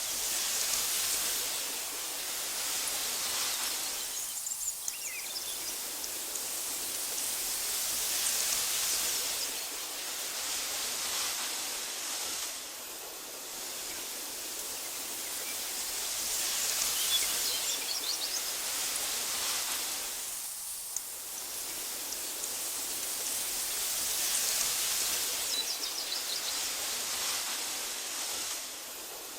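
Wind blowing through tall meadow grass, a hissing rush that swells and dies down in slow waves about every eight seconds. A few faint bird chirps sound over it.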